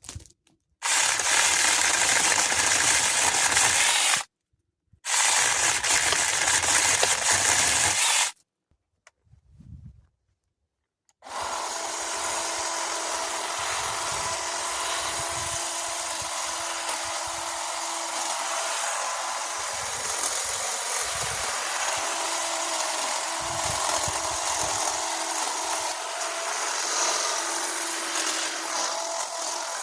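A power cutting tool running in two loud bursts of about three seconds each, each breaking off abruptly. After a short gap it runs steadily, a little quieter, with a steady humming tone.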